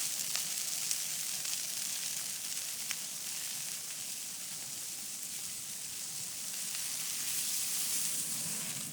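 Christmas tree burning in a bonfire: a steady hiss with a few scattered crackles.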